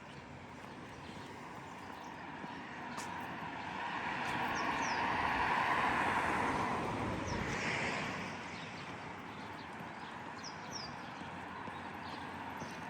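A vehicle passing along the street, its sound swelling to a peak about halfway through and fading again, over a steady street hum, with a few short bird chirps.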